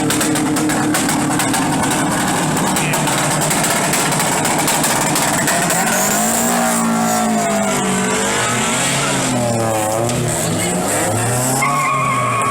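Car engine running loudly with a harsh hiss, then revved up and down several times from about halfway through.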